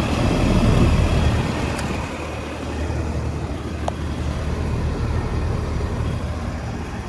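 1998 Corsaire 2-ton central air conditioner's outdoor condenser running just after starting up: a steady low compressor hum with the condenser fan's whoosh over it. There is a small click about four seconds in.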